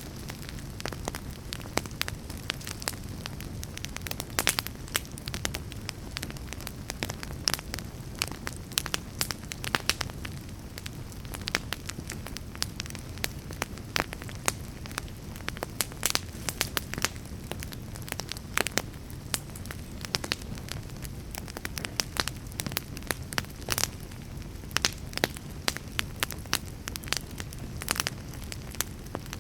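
Fire crackling: irregular sharp pops and snaps, several a second, over a steady low rumble of the burning.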